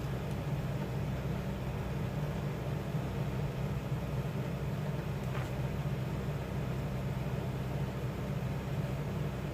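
A steady low hum that stays even throughout, with no distinct strokes or knocks.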